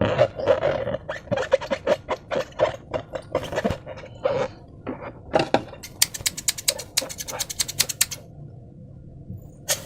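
Slime being squished and worked by hand: a run of sticky clicks and small pops, with a fast series of sharp crackling clicks, about ten a second, for roughly two seconds past the middle.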